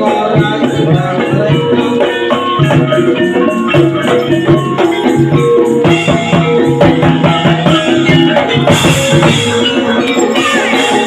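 Loud ebeg accompaniment music: a fast, dense percussion rhythm with drums and many ringing pitched notes, steady throughout.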